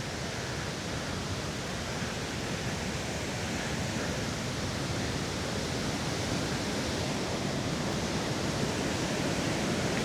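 Steady rushing noise outdoors, even and unbroken, with no distinct events.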